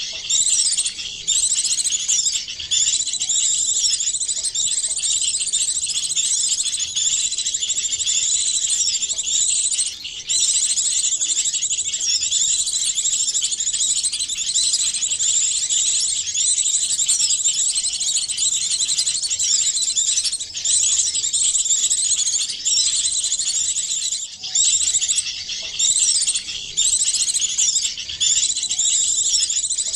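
A bird-lure recording of several small songbirds calling at once, with dense, rapid, high-pitched chirps and twitters that run on almost without a break. It is a mix of small-bird calls blended to draw small birds in.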